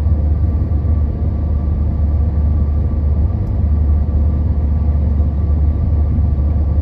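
Steady low rumble of an Amtrak Capitol Corridor passenger train in motion, heard from inside the coach, with a faint steady whine above it.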